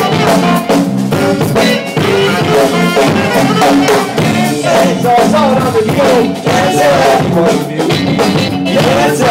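Live jam band playing an instrumental passage: drum kit keeping a steady beat under a melody line that bends up and down in pitch.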